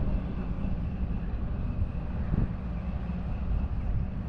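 Drag car engine idling down the track at the starting line: a steady low rumble.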